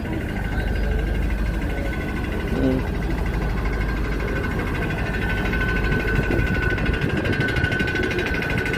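A machine running steadily: a low hum with a constant high whine that gets louder toward the end.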